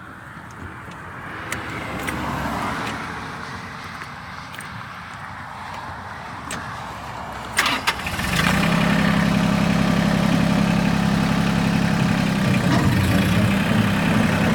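Mahindra 1526 26-horsepower diesel tractor running with a 5-foot rotary cutter working through tall grass. The sound grows louder over the first few seconds. A couple of sharp knocks come about eight seconds in, and then the engine becomes a much louder, steady drone.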